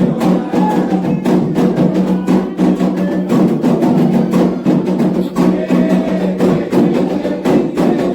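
Candomblé atabaque drumming, fast and continuous, with sharp clicking strokes over the drums.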